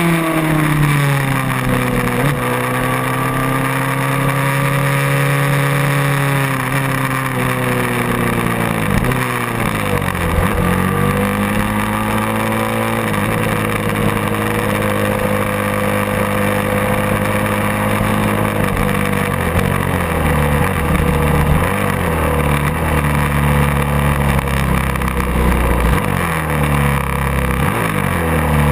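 Racing motorcycle engine running while the bike stands in pit lane: its note drops and settles in the first couple of seconds, dips and picks up again about ten seconds in, then holds a steady idle.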